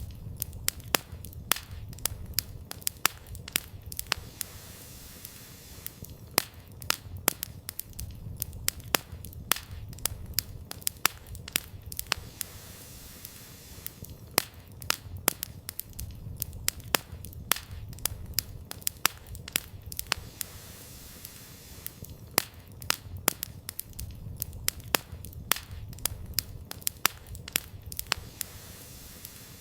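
Wood campfire crackling, with frequent sharp irregular pops over a low steady rumble. The pops thin out briefly every several seconds.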